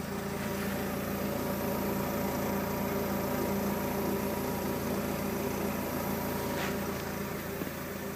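Alfa Romeo 156 Selespeed's engine idling steadily.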